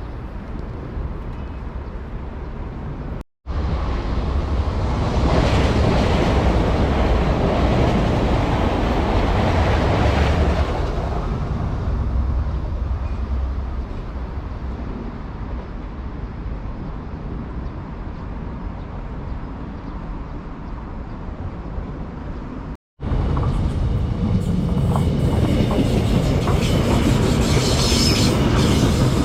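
Passenger trains running past on the track: a steady rumble of wheels on rail with some clickety-clack. It comes in three stretches split by brief dropouts about 3 and 23 seconds in, loudest a few seconds after the first dropout and building again near the end.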